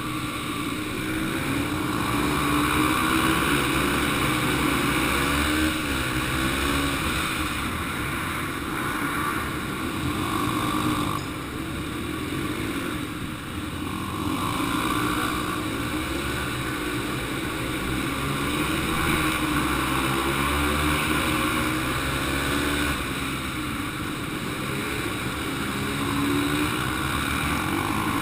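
Yamaha TT-R 125 dirt bike single-cylinder four-stroke engine running hard around a dirt track, the pitch rising on the throttle and dropping off into the turns every few seconds.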